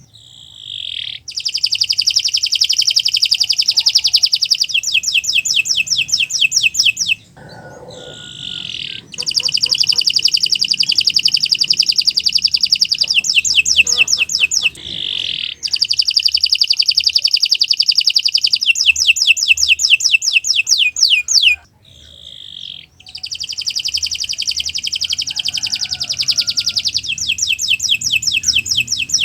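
Domestic canary singing a long, vigorous song of fast repeated trills. The song comes in phrases several seconds long, with a short pause between them about every seven seconds.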